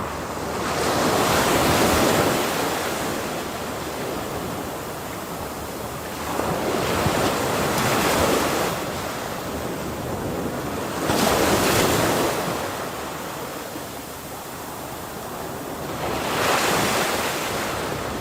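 Ocean waves crashing: four surges of surf that swell and fade about every four to five seconds, with a steady wash between them.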